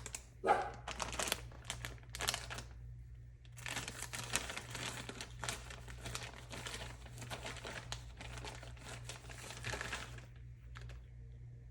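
A plastic bag of shredded mozzarella crinkling as cheese is shaken and sprinkled out of it. There are a few short rustles at first, then a longer stretch of steady crinkling that stops about two seconds before the end.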